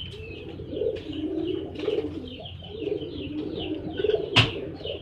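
Domestic pigeons cooing in repeated low, warbling phrases, with higher, quick chirps from small birds over them and one sharp knock about four seconds in.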